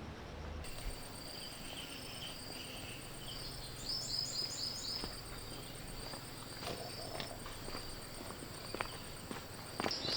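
Insects trilling steadily in a high pitch, with a quick run of about five chirps around four seconds in. A few light ticks and steps come near the end.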